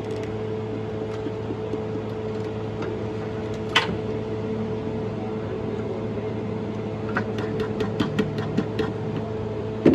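A steady mechanical hum, with a sharp click about four seconds in and a run of quick clicks and taps near the end.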